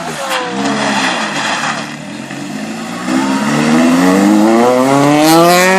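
R2-class rally car's engine rising and falling in short swings, then accelerating hard with one long rising note from about halfway through.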